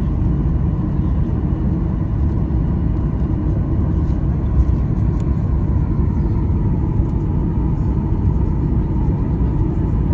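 Boeing 737-800's CFM56 engines and airframe heard from inside the passenger cabin: a loud, steady low rumble with a thin steady whine above it.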